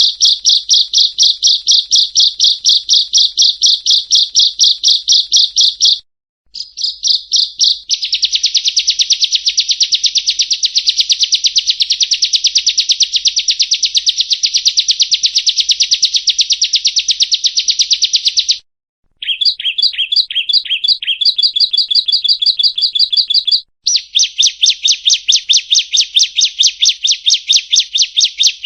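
Bar-winged prinia (ciblek kristal) singing long, fast runs of sharp high chirping notes, several bouts broken by short pauses, with a slower, choppier phrase in the middle.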